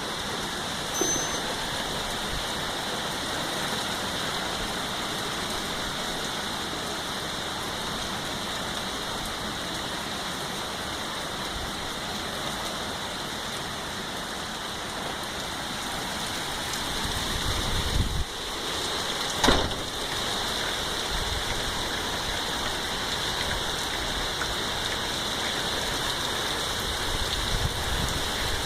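Heavy rain pouring down steadily. About two-thirds of the way through, a low rumble swells and a single sharp crack follows.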